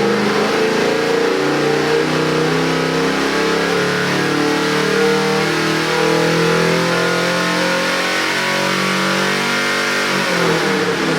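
Ford 347 cubic-inch small-block stroker V8 running and being revved, holding at several engine speeds in turn. The revs drop near the end.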